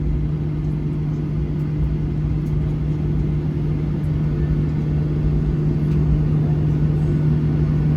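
Steady low rumble and constant hum inside the cabin of a Boeing 737 on the ground after landing, the aircraft taxiing with its engines at idle.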